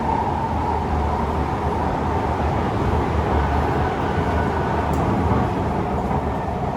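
Kawasaki C151 MRT train running between stations, heard from inside the car: a steady rumble of wheels on rail and running gear.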